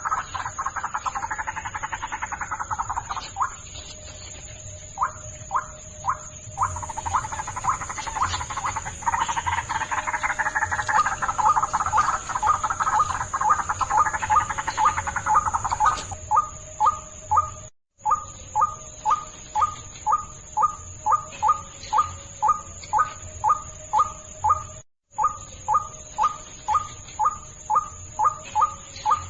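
White-breasted waterhen calling: a fast, dense chatter at first, then from about halfway a steady run of repeated calls about two a second. The sound cuts out twice for an instant.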